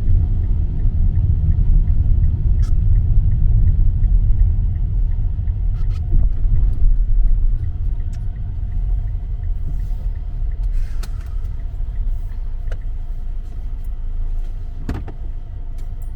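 Low, steady vehicle rumble that eases off a little about seven seconds in, with a light regular ticking during the first few seconds and a few scattered clicks.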